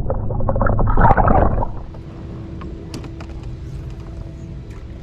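Water splashing and sloshing for about the first second and a half as a small bass is let go back into the lake, then a quieter steady background with a faint hum and a few light clicks.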